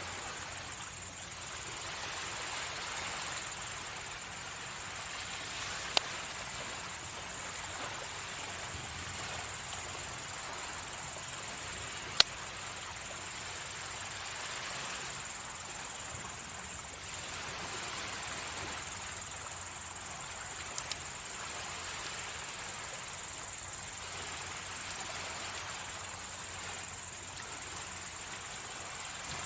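Sea waves washing onto the shore, a steady hiss that swells and eases every few seconds, under a steady high-pitched insect trill. A few sharp pops from the wood fire stand out, the loudest about six and twelve seconds in.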